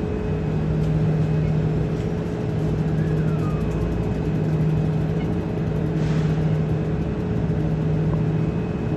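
NJ Transit commuter train pulling out and moving away, with a steady machine hum over a low rumble. A faint falling squeal comes about three seconds in.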